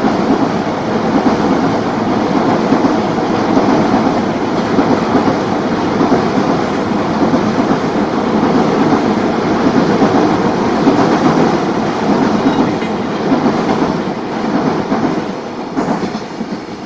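Container wagons of a freight train rolling across a steel girder railway bridge: a steady, loud run of wheels on rail with clickety-clack, dying away near the end.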